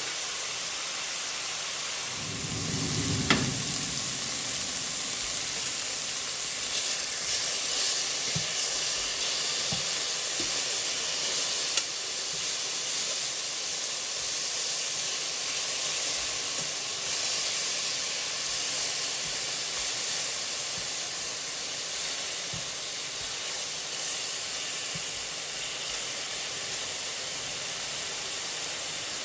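Food sizzling steadily in a hot pan, a constant high hiss, with a few sharp clicks at about three, seven and twelve seconds in.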